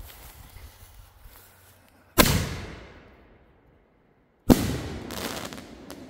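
A consumer aerial firework shell fired from a mortar tube: a sharp bang as it launches about two seconds in, then a second, louder bang about two and a half seconds later as the shell bursts overhead, followed by a few smaller cracks.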